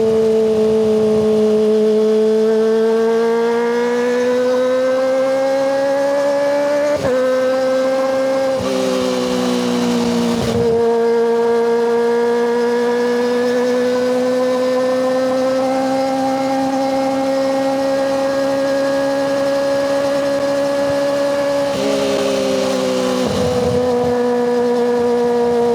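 Kawasaki ZX-25RR's 250 cc inline-four running through a Yoshimura Hepta Force exhaust at high revs, a steady high-pitched note. The pitch climbs slowly and shifts with short breaks several times, as with gear changes.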